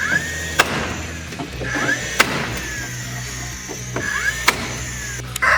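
Cordless nail gun firing three times, each shot preceded by a short rising motor whine as it winds up. A rooster starts crowing at the very end.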